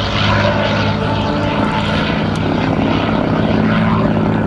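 North American P-51D Mustang's Packard Merlin V-12 engine and propeller running loud and steady.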